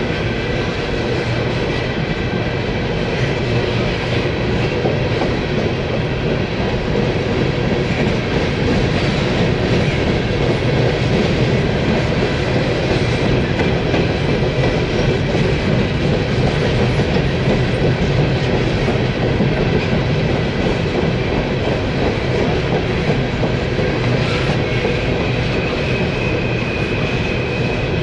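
Freight train of coal hopper cars rolling steadily past: a continuous loud rumble and clatter of steel wheels on the rails. A thin high steady tone comes in near the end.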